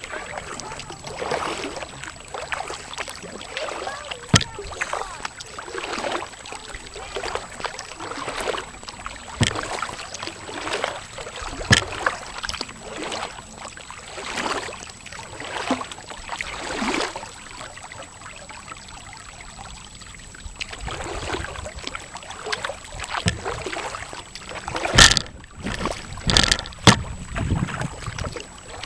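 Kayak paddling: paddle strokes dipping and swishing through river water about every one to two seconds, with scattered sharp knocks and a louder cluster of knocks and splashes near the end.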